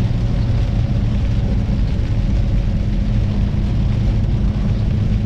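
Kenworth semi truck's diesel engine running at road speed, heard from inside the cab as a steady low drone.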